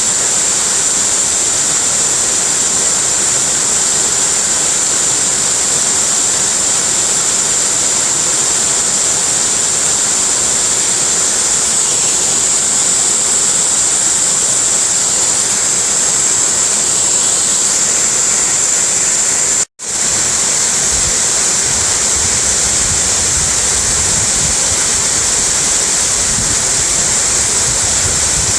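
Waterfall's steady rushing water. The sound drops out completely for an instant about two-thirds of the way through, then returns with a low rumble beneath it.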